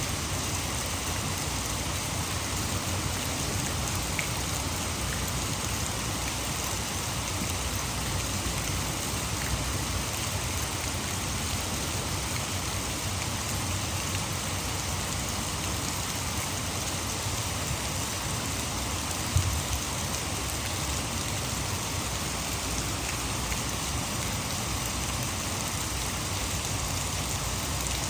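Heavy rain falling steadily, an even hiss, blended with the rush of water falling at a hydroelectric dam. A single short knock stands out about two-thirds of the way through.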